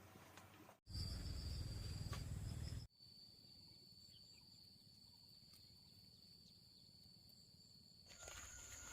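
Insects chirring outdoors with a steady, high, unbroken note that shifts higher after a cut near the end. From about one to three seconds in, a louder low rumble covers it.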